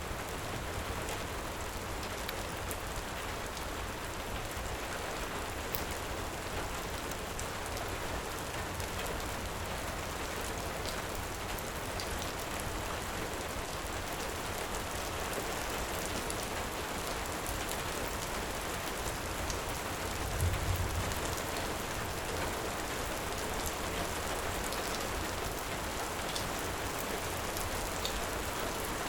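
Heavy rain falling steadily in an even hiss, with faint scattered crackles from a fire. About two-thirds of the way through comes a brief low rumble.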